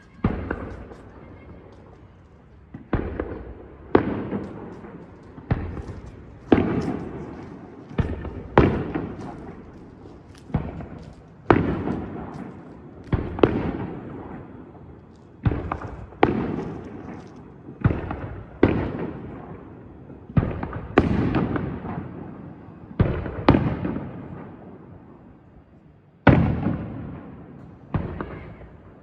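Aerial fireworks bursting in quick succession, about twenty sharp bangs, one every second or so, each trailing off into a fading rumble and crackle.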